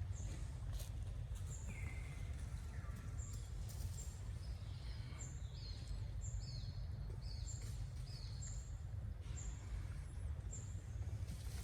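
Short, high-pitched bird-like chirps repeating about once a second, with a few falling notes and a single whistle, over a steady low rumble.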